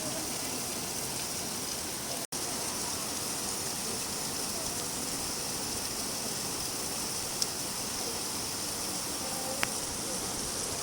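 Steady rain falling as an even hiss. About two seconds in it cuts out completely for a split second, a break in the recording, and a couple of faint ticks come near the end.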